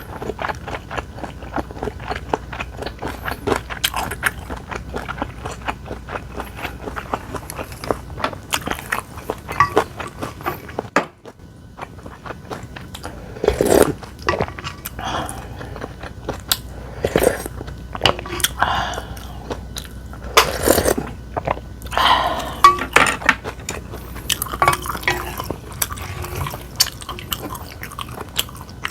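Close-miked eating: a person chewing food with rapid fine clicks, a short pause about eleven seconds in, then louder, separate bites and mouthfuls.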